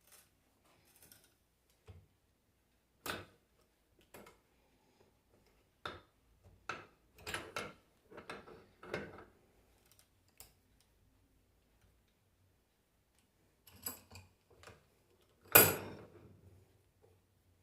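Scattered light metal clicks and knocks as an alternator bearing is set into place with an installer tool, with one loud sharp knock about 15 seconds in as it is tapped home on its outer race.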